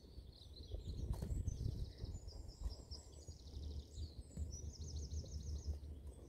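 Small birds chirping, with a quick trill of high notes near the end, over a steady low rumble of wind on the microphone.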